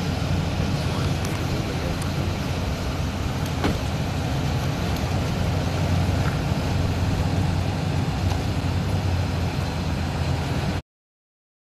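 Steady low rumble of an idling vehicle engine, with faint clicks over it, cutting off suddenly near the end.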